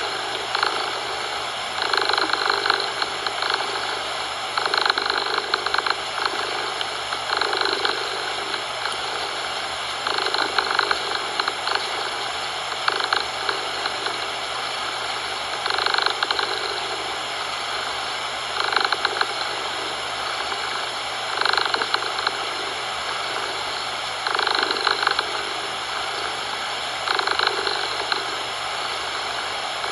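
Cat purring in slow, even swells about every two and a half to three seconds, over a steady hiss of coloured noise.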